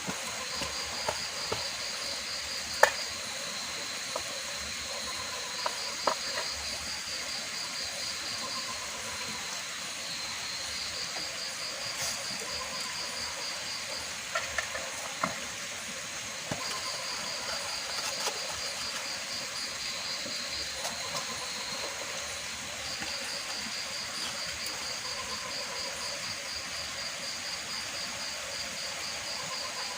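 Insects trilling in repeated bouts of rapid high-pitched pulses, several seconds each, over a steady hiss of water noise. A few sharp clicks are scattered through it, the loudest about three seconds in.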